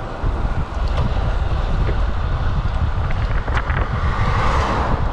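Wind buffeting the microphone of a bike-mounted camera on a road bike moving at speed, a steady rushing noise with deep low rumble and a few faint clicks.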